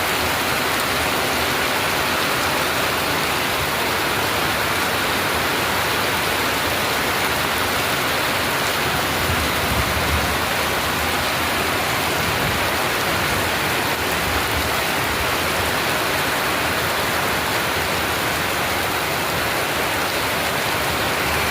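Heavy monsoon rain falling steadily, a constant dense hiss of the downpour.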